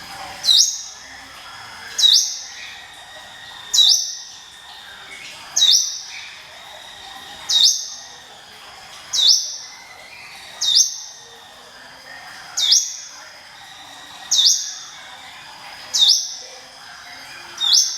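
Ciblek gunung (a prinia) calling 'ngiwit wit' over and over: a sharp rising whistle that settles into a high note, repeated about every 1.8 seconds.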